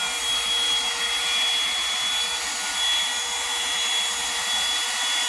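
Revlon One-Step Volumizer hot-air brush dryer running steadily on its cool setting: a constant rush of air with a thin high whine from the motor.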